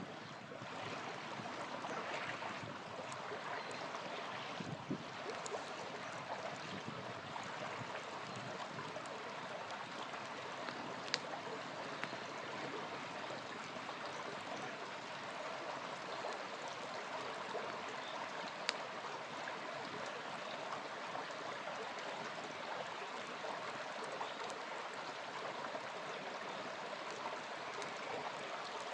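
Small river flowing steadily, with a wood campfire crackling over it; two sharp pops stand out, one about a third of the way through and one about two-thirds through.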